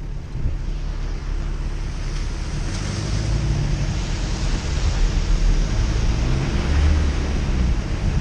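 Off-road 4x4 engine running under a heavy wash of wind noise on the microphone, the rumble growing somewhat louder past the middle.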